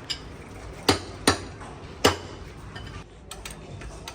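Hammer blows on metal: four sharp, irregular strikes in the first two seconds, then lighter metallic clinks.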